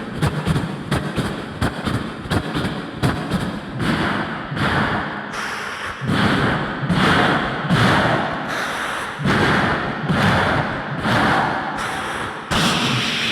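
Vocal sound effects made into a stage microphone by a mimicry and beatbox artist: quick sharp clicks and thumps about three or four a second, then from about four seconds in a slower run of longer rushing, breathy sounds about once a second.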